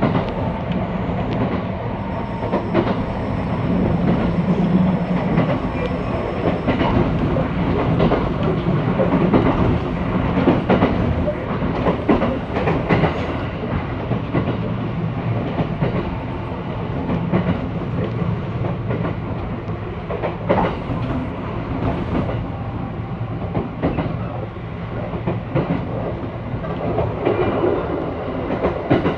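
A train running, heard from inside the passenger car: a steady rumble of wheels on the rails, with occasional clicks over rail joints.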